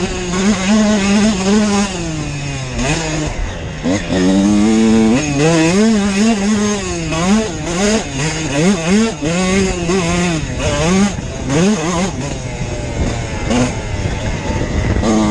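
Dirt bike engine running under way, its revs rising and falling again and again as the throttle is opened and closed.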